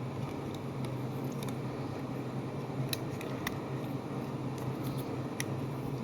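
Scattered light clicks and ticks of handling a small diecast toy car and its sticker sheet, over a steady low hum.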